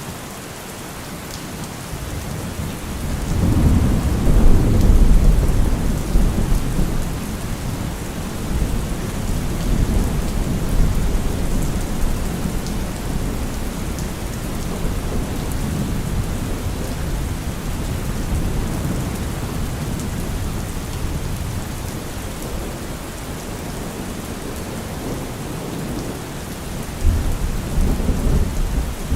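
Steady rain falling on trees and leaves. Thunder rumbles low, swelling about three seconds in and rolling on for several seconds, then comes a shorter rumble near the end.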